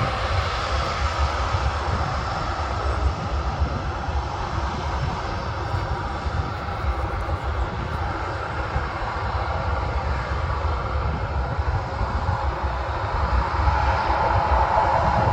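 Aircraft engines running with a continuous rumble and a whine around the middle of the range, growing louder over the last few seconds.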